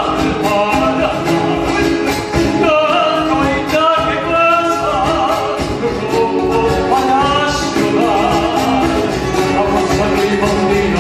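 Latin American folk song: a voice singing with vibrato over instrumental accompaniment.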